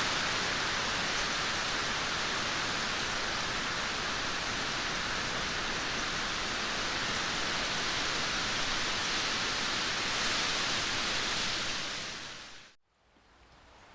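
Steady, dense hiss of heavy rain. About twelve seconds in it fades out to a brief moment of near silence, then a quieter rain sound fades back in.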